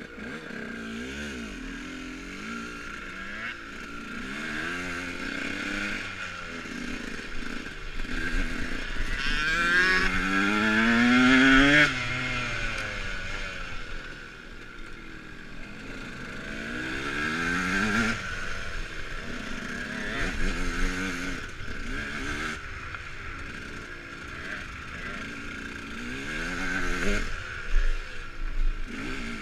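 KTM Freeride E electric dirt bike motor whining as it accelerates and backs off, the pitch rising and falling again and again. The longest climb, about ten to twelve seconds in, is the loudest and cuts off sharply.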